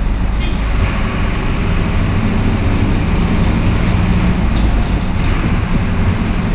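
Mercedes-Benz OF-1721 Bluetec 5 bus's four-cylinder diesel engine running steadily under way, heard from inside the cabin, with a faint high whine over it.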